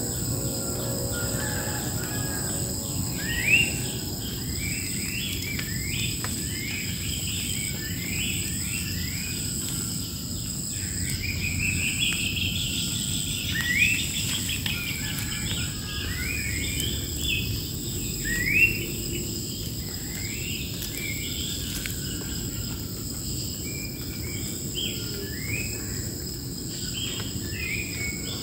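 Wild birds calling over and over in short, quick rising notes, a few calls standing out louder, over a steady high-pitched drone of insects and a low background rumble.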